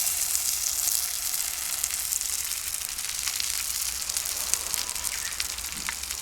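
Food frying in a hot pan: a steady high sizzle with many small pops and ticks, easing slightly toward the end.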